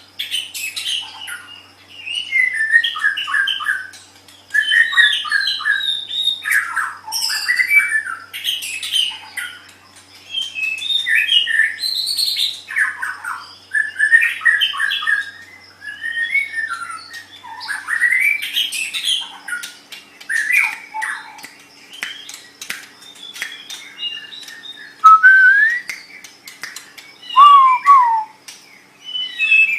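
White-rumped shama (murai batu) singing: a run of fast, varied phrases of chattering and trilled notes, each a couple of seconds long with short pauses between. Near the end come a few clear, sliding whistled notes.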